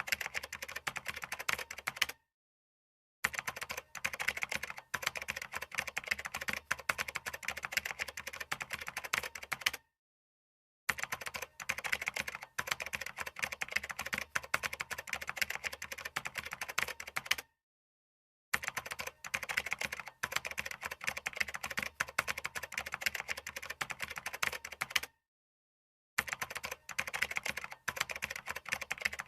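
Fast, continuous typing on a computer keyboard, a dense run of keystroke clicks. It cuts to complete silence for about a second four times, roughly every seven seconds, before the typing resumes.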